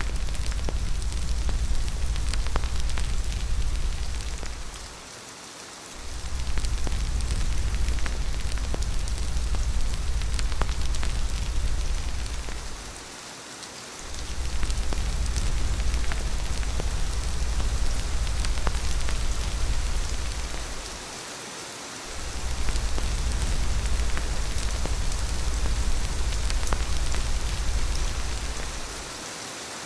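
Steady rain falling, with many small drop ticks over an even hiss, and a deep low rumble underneath that drops away for about a second four times, roughly every eight seconds.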